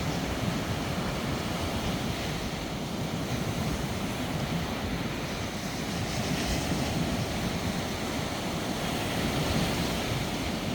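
Steady rushing storm wind buffeting the microphone, with a constant low rumble and no distinct thunderclap.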